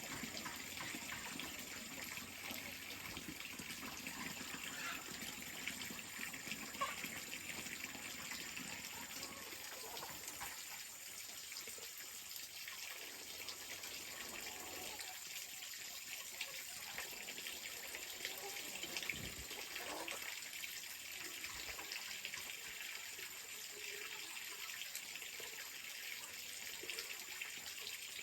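Water running and splashing steadily, with scattered small clicks and knocks.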